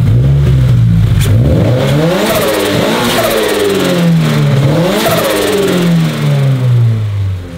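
Turbocharged Subaru BRZ's flat-four engine revved up and down a few times while parked, the revs easing slowly back down near the end. The blow-off valve is disconnected, so the turbo is left to surge when the throttle closes.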